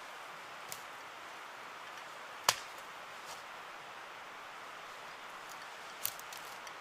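Steady rushing background noise with a single sharp knock about two and a half seconds in, and a few lighter clicks near the end.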